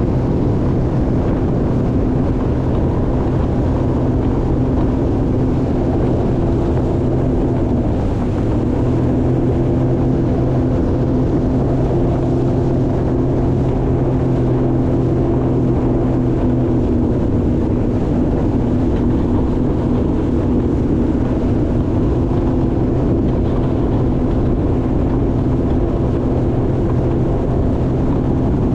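Jet ski engine running steadily at cruising speed, with wind buffeting the microphone. The engine note dips briefly about eight seconds in, then settles again.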